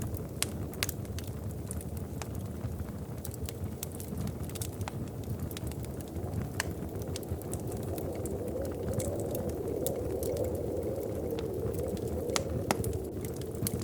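Wood fire burning in a fireplace: a steady low rush of flame with irregular sharp crackles and pops. A softer rushing swells up in the second half and fades near the end.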